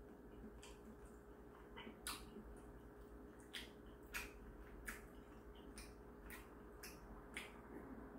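Quiet chewing of a mouthful of noodles: faint, soft mouth clicks at irregular moments, roughly one every half second to second, over a low steady room hum.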